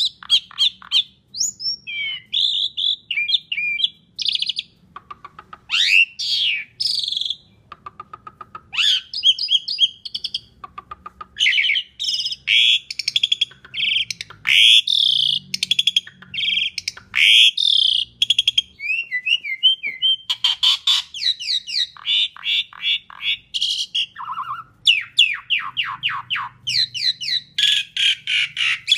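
Asian pied starling (jalak suren) singing a long, loud, varied song of whistled glides, chirps and fast rattling note-trains, with only short pauses between phrases.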